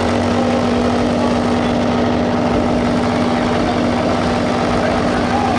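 Motorcycle engines idling in a steady drone, with one constant hum held above the rumble.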